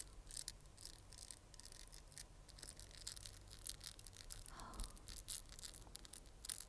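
ASMR mouth sounds: quick, irregular wet clicks and smacks close to the microphone, with a short breathy sound a little past the middle.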